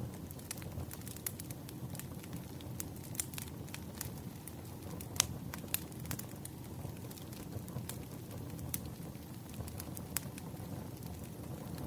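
Wood fire crackling: irregular sharp pops and snaps of burning firewood over a steady low rumble, with one louder snap about five seconds in.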